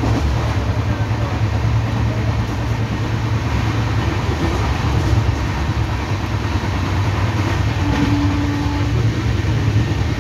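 Steady running noise of an Indian Railways LHB passenger coach at speed: a continuous low rumble of wheels on rails with track noise over it.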